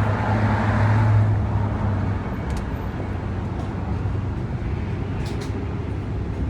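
Street traffic: a steady low engine hum, with a vehicle swelling past in the first second or two. A few faint clicks come later.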